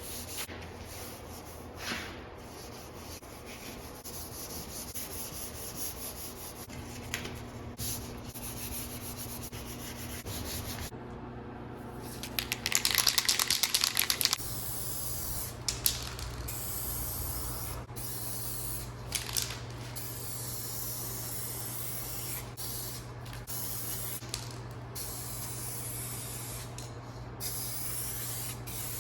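Aerosol spray paint being sprayed onto car body panels, hissing in passes that stop and start over and over. About halfway through there is a louder scratchy stretch of about two seconds.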